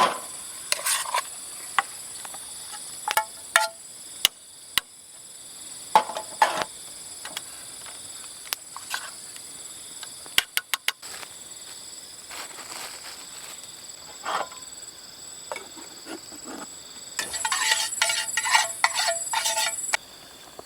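Steady high-pitched chorus of forest insects, with scattered sharp clicks and knocks throughout and a dense spell of rattling clicks near the end.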